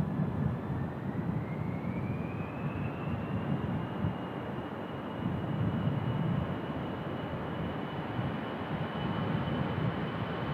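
Departing Airbus A321 jet engines: a broad rumble with a thin whine that rises in pitch over the first few seconds and then holds steady. Gusty wind buffets the microphone.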